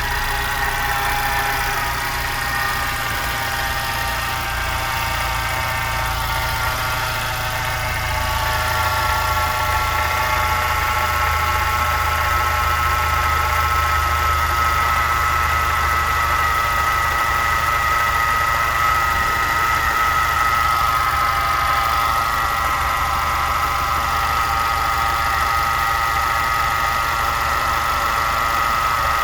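Volkswagen Jetta Mk5 engine running at idle with a steady high-pitched whine over it, slightly louder after about eight seconds. It is the wind-like noise from the front of the engine that the owner thinks is coming from somewhere near the drive belt.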